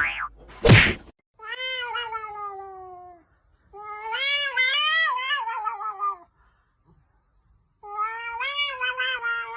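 Cat giving three long, drawn-out meows, the first falling in pitch and the next two wavering, with short pauses between them. Two short, loud sweeping sounds come within the first second.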